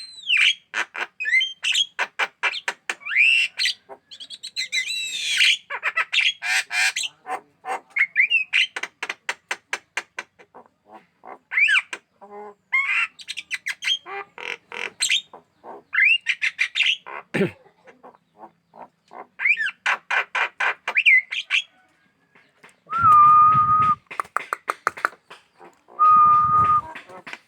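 Javan myna calling in long chattering runs of rapid rattling notes mixed with harsh squawks. Near the end come two held, flat notes of about a second each.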